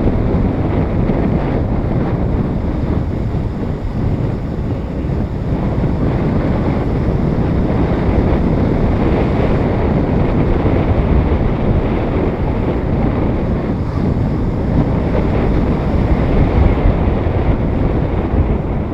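Heavy wind buffeting the microphone of a camera riding on a moving motorcycle, a steady rushing noise with the bike's running sound underneath.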